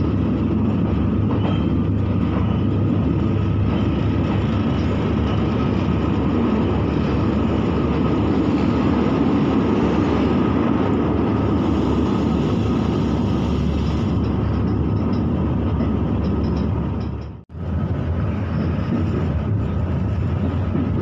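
Electric commuter train running, heard from inside the carriage: a steady rumble of wheels on rails with a faint even hum. The sound cuts out for an instant about three-quarters of the way through, then carries on.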